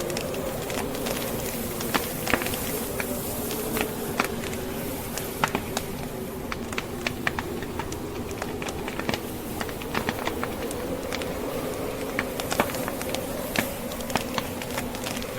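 Wood fire crackling with many irregular sharp pops and snaps, over a steady blizzard wind with a low, wavering hum.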